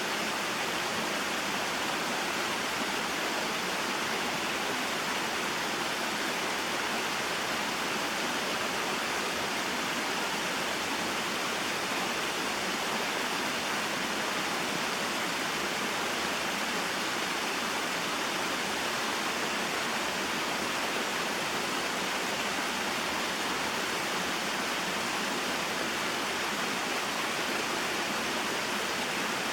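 Small waterfall and mountain stream, water flowing and splashing in a steady, unbroken rush.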